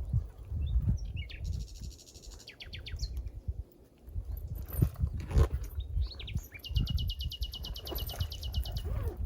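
Forest songbirds calling: scattered high chirps and whistles, then a rapid, even trill lasting about two seconds near the end, over a low rumbling background noise.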